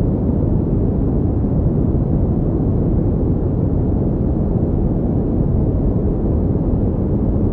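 Continuous pink noise: a steady, deep-toned rushing hiss that does not change, with its weight in the low end and little treble.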